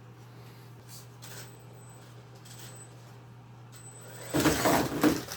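Brushless RC monster truck sitting with a faint high-pitched whine from its motor electronics, a few light knocks, then a loud burst of drive and tyre noise lasting about a second near the end as it is throttled.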